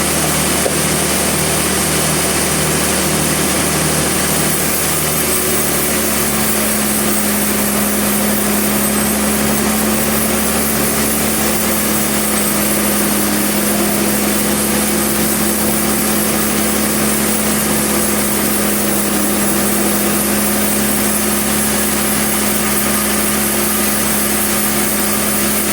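Sawmill machinery running steadily with an engine-like hum; a new steady tone comes in about six seconds in and holds.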